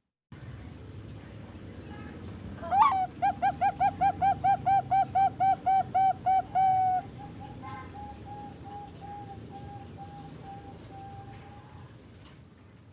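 Young Bangkok-line zebra dove (perkutut), 3.5 months old, singing: a rising opening note, then a fast, even series of loud coos at about four a second. About seven seconds in, it changes to a softer, slower string of notes that fades out near the end.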